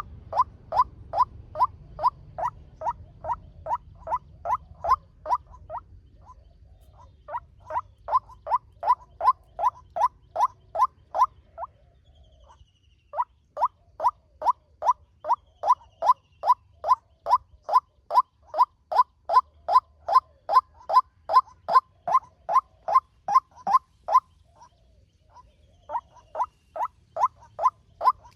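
Male white-breasted waterhen calling fast, a steady string of short, loud notes at about three a second. The calls come in four runs with brief pauses between them, a lure call used to draw waterhens.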